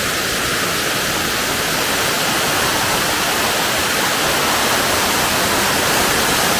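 Waterfall: water falling steadily, a loud, even rush of noise.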